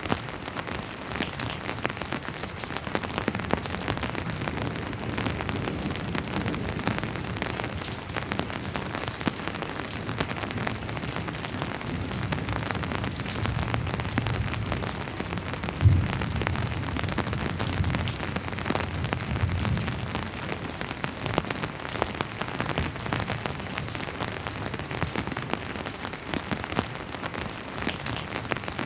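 Steady rain falling, many separate drops heard. A low rumble of distant thunder swells through the middle, peaking sharply about sixteen seconds in.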